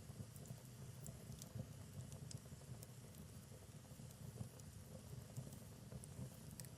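Wood fire in a fireplace crackling faintly: a low, steady rumble of burning logs with scattered small, sharp pops.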